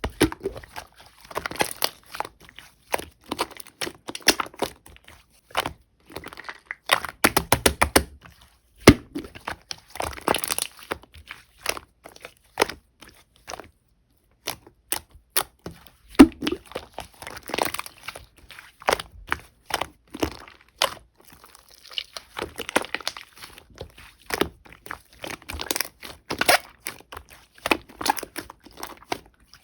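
Clear slime mixed with clay being squished, pressed and stretched by hand, giving dense irregular clicks, pops and crackles with brief pauses.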